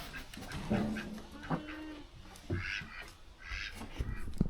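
Ducks calling with several short, low quacks in a row.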